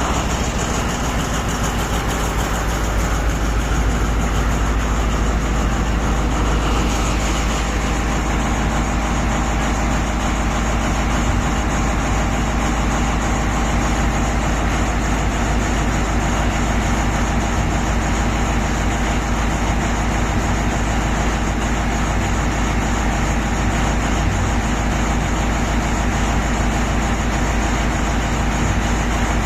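Heavy diesel engines of mining machines running steadily at a low, even drone.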